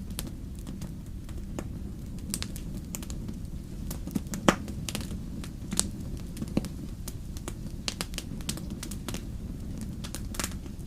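Wood fire in a fireplace crackling with frequent sharp pops over a steady low rumble; one louder pop about halfway through.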